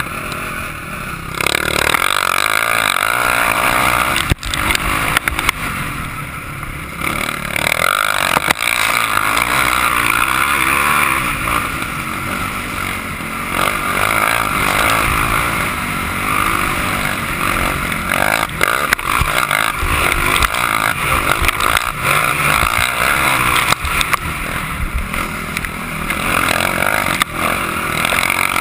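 Motocross motorcycle engine running hard around a dirt track, revving up and down in repeated surges between throttle-off dips.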